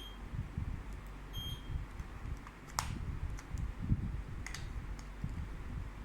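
Mini split air conditioner's indoor unit giving short electronic beeps, two of them about a second and a half apart, the signal that it has taken a command from the remote. Scattered clicks and low rumbling handling noise run alongside.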